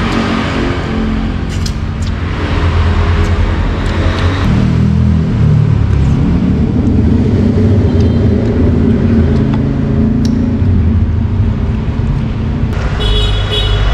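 A motor vehicle engine running close by, a low steady rumble with street traffic that grows louder a few seconds in. A brief high-pitched tone sounds near the end.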